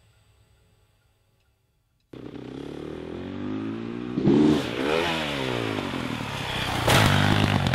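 Music fades to near silence, then about two seconds in a motocross bike's engine cuts in abruptly, revving up and back down. A sudden loud burst of noise comes near the end.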